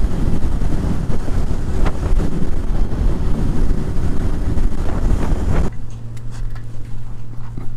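Heavy wind noise blasting the microphone of a rider on a moving motorcycle. About three-quarters of the way through it cuts off abruptly, leaving a quieter steady low hum.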